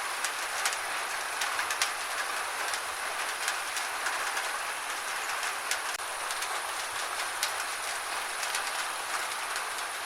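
Gentle rain falling steadily: an even hiss with scattered sharp ticks of single drops landing.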